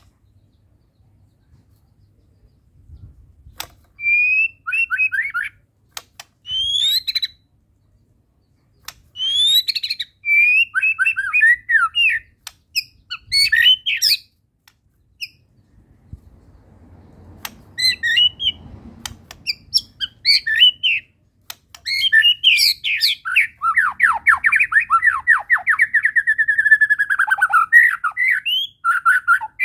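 White-rumped shama (murai batu) singing in loud, varied phrases of rising whistles and quick chattering notes, coming more densely in the second half with a long fast run of repeated notes. The song is full of learned fill-in phrases (isian).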